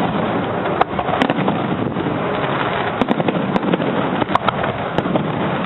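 Fireworks display going off: a continuous dense crackle with sharp cracks and bangs scattered through it, several in quick succession about three seconds in.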